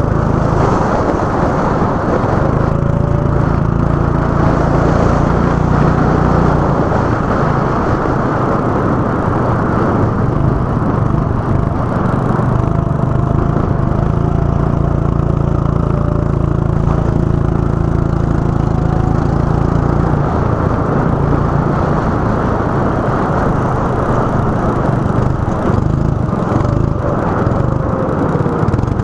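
Go-kart engine running continuously, its note changing a few times as the throttle is eased and opened again, with a fainter second engine note sliding up and down.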